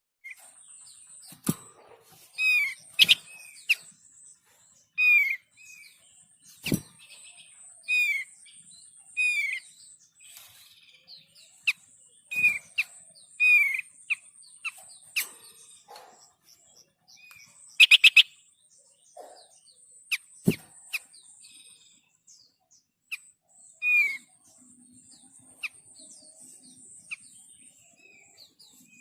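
Small songbirds chirping from a bird-lure recording: repeated short curved chirps, several calls overlapping, over a thin steady high-pitched tone that stops and starts. A few sharp clicks stand out, the loudest about 18 seconds in.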